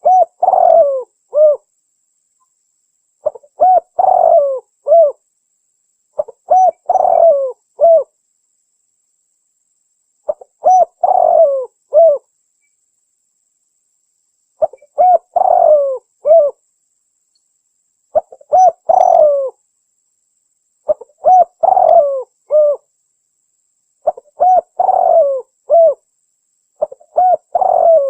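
Spotted dove (tekukur) cooing, played as a recorded hunting lure call: about nine phrases of several short coos each, repeated roughly every three and a half seconds, with silence between them.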